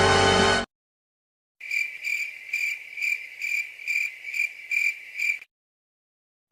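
Crickets chirping: a high, steady chirp repeating about twice a second for about four seconds. Before it, a music clip cuts off abruptly less than a second in, followed by a moment of silence.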